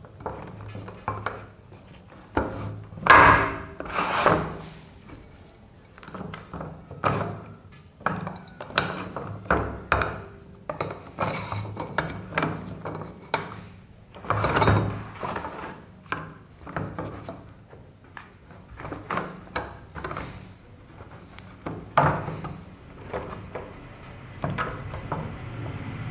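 Parts of a polypropylene washing machine trolley being handled and fitted together: irregular knocks, clicks and scraping as the rods and frame pieces are pushed into place, with a few louder knocks near the start, in the middle and near the end.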